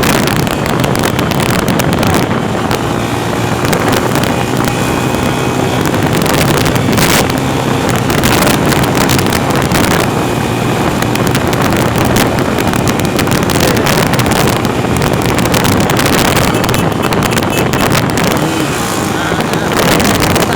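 Vehicle engine running steadily while on the move, with wind buffeting the microphone in frequent gusts.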